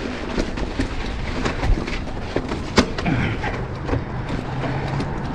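Mountain bike rolling over a rough, rocky trail: steady tyre and wind noise with constant rattling and clicking from the bike.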